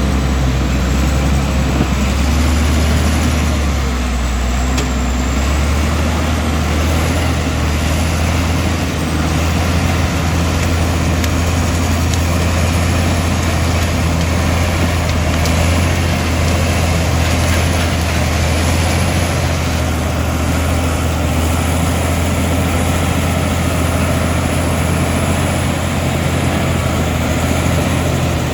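Komatsu D65E bulldozer's diesel engine running steadily, a deep, constant hum that holds the same level throughout.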